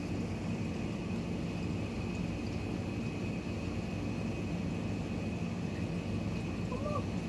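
A steady low drone with a faint, steady high whine over it. About seven seconds in, a brief high call rises and falls.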